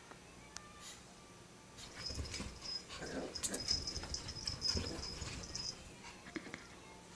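A Chihuahua and a beagle puppy play-fighting: a burst of small-dog noises and scuffling with some high thin squeals, starting about two seconds in and dying down near six seconds.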